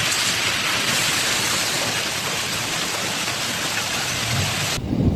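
Heavy rain hissing steadily. Near the end the sound cuts off suddenly to a low, uneven rumble.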